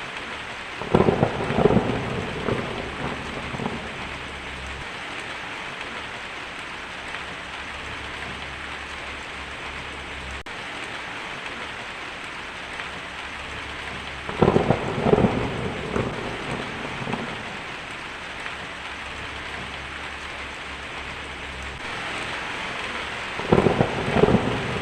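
Heavy rain falling steadily on a tin roof, with thunder cracking and rumbling three times, each roll lasting two to three seconds: about a second in, about fourteen seconds in, and near the end.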